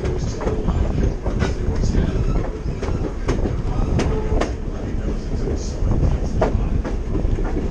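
Passenger railroad car rolling along the track, heard from aboard: a steady rumble with irregular sharp clicks and knocks from the wheels and running gear.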